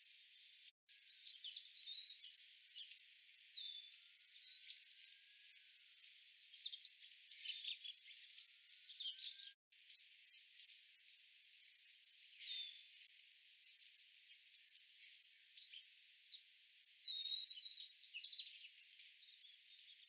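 Golden-crowned sparrows giving short high chips and brief slurred twitters in scattered clusters, busiest in the first half and again near the end.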